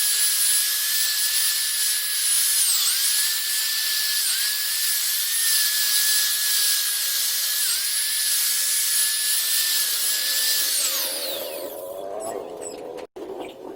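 High-speed electric buffing tool polishing a motorcycle exhaust pipe, its motor whining steadily with brief dips in pitch as it bears against the pipe. About eleven seconds in it is switched off and winds down, followed by a few light clicks.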